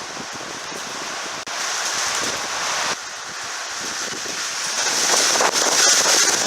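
Storm wind gusting hard, a steady rushing noise that builds louder over the last couple of seconds, with wind buffeting the microphone.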